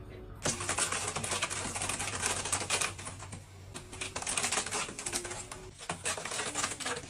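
A dense, irregular run of quick small clicks and scratches, like fast typing, breaking off briefly about six seconds in.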